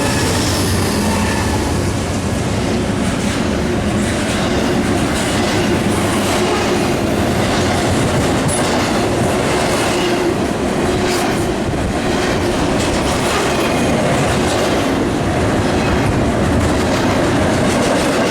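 A train's cars rolling steadily past, the wheels clicking over rail joints, with a few brief high wheel squeals.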